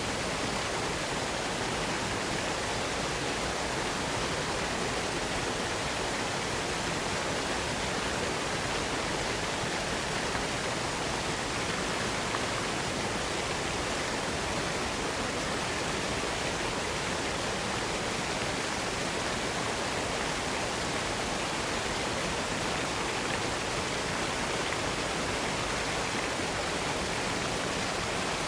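Waterfall: water rushing and splashing in a steady, unbroken roar with no changes.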